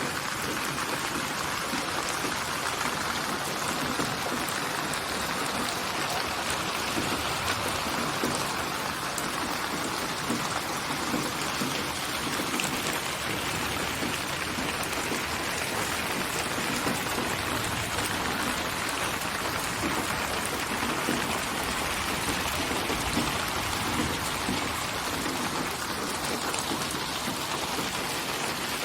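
Steady rainfall: an even, continuous hiss of many raindrops on a surface, with no thunder or distinct single drops standing out.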